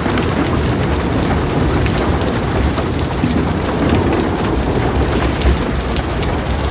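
Heavy rain on a metal roof: a dense, steady patter with many sharp drop ticks, over a continuous low rumble of thunder.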